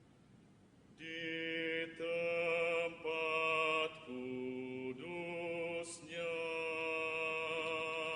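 Singing voices holding long sustained notes, changing pitch a few times. It starts about a second in, after a brief quiet moment.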